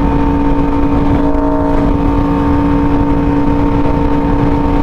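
Yamaha R1M's crossplane inline-four engine running at steady revs while cruising, its pitch holding level, with wind rushing over the microphone.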